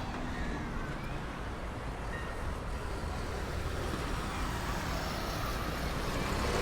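Steady low rumble of vehicle traffic, slowly swelling and loudest near the end.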